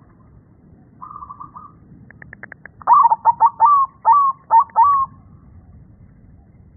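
Perkutut (zebra dove) singing. A short soft trill comes about a second in, then a quick run of clicks, then a loud string of about eight clipped coos in its staccato song, said to be deep-voiced.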